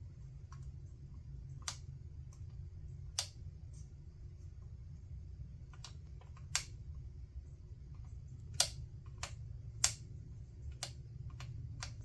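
About ten sharp, irregularly spaced clicks and taps of hand tools against the circuit board and bench during soldering work, the loudest two near the end, over a steady low hum.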